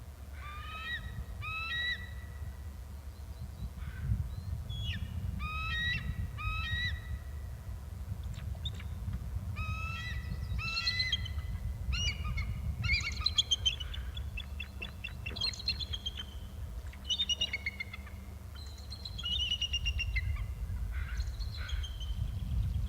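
A pair of birds calling back and forth in short series of high, ringing notes, with a rapid trill about halfway through.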